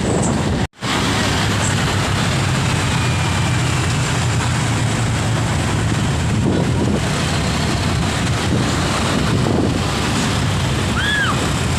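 Truck engine running steadily with a low hum, mixed with rushing wind noise on the microphone. The sound cuts out briefly a little under a second in.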